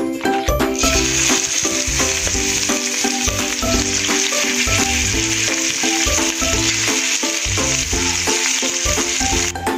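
Chunks of beef sizzling in hot oil in a frying pan, a steady hiss that starts about a second in and cuts off suddenly near the end. Background music plays throughout.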